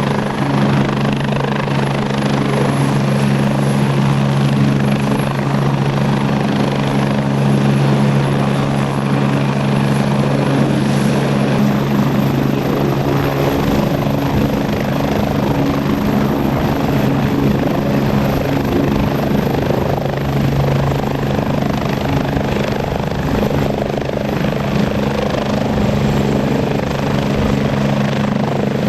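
Agusta A109E Power twin-turbine helicopter running steadily, with rotor noise, a low hum and a thin high turbine whine. About twelve seconds in, the whine steps up in pitch.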